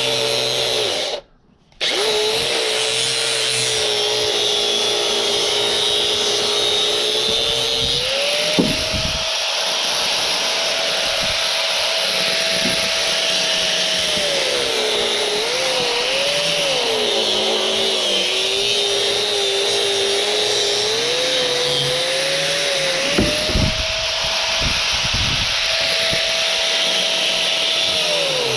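A handheld electric power tool running continuously. Its motor whine drops in pitch when it bogs down under load and climbs back up as the load eases, several times over. The sound cuts out briefly about a second in.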